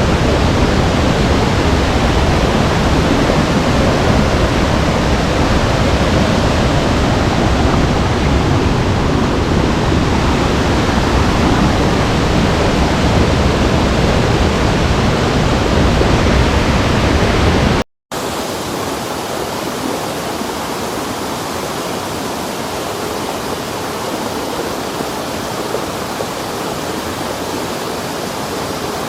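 Waterfall: a loud, steady rush of falling water. About eighteen seconds in it cuts out for an instant and comes back quieter, with less bass.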